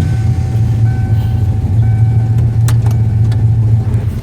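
Car engine idling steadily just after starting, with a thin faint tone that comes and goes above the engine.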